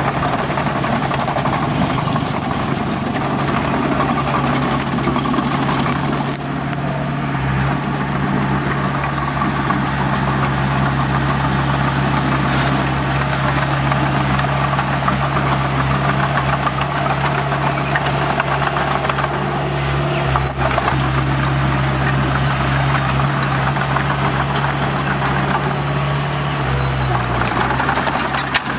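Heavy diesel engine of earthmoving equipment running at a steady speed, its pitch shifting slightly a few times.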